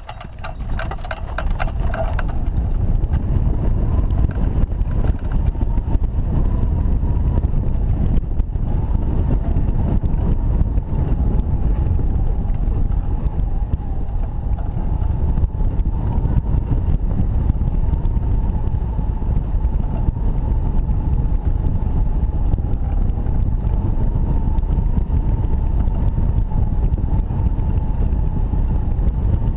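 Airflow over the microphone of a hang glider in flight in strong wind: a loud, steady low rumble that builds over the first couple of seconds. From a few seconds in, a thin steady whistle holds just under 1 kHz.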